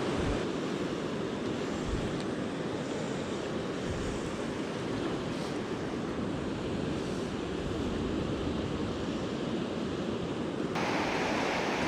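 River rapids rushing steadily, with a few low gusts of wind buffeting the microphone. The character of the rush changes abruptly near the end.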